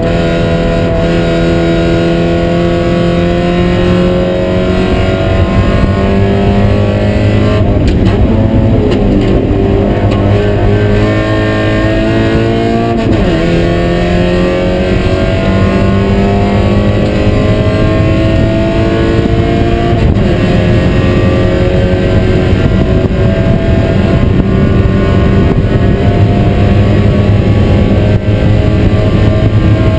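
Spec Miata's four-cylinder engine running hard under load, heard from inside the stripped race-car cabin. Its note climbs slowly, dips briefly about 8, 13 and 20 seconds in, then climbs again.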